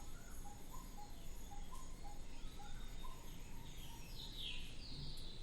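Faint bird calls in the background: a short note repeated about twice a second, with a few higher falling chirps.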